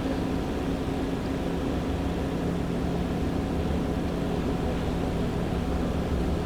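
Steady mechanical hum with a constant low drone under an even noise.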